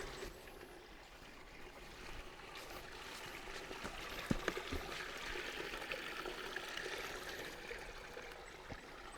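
Forest river flowing: a faint, steady rush and trickle of water that swells a little after the first couple of seconds, with a couple of light clicks.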